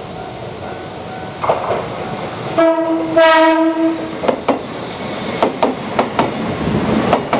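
Shizuoka Railway 1000-series electric train sounding its horn in one blast about a second long, about two and a half seconds in, then passing close with its wheels clacking over the rail joints.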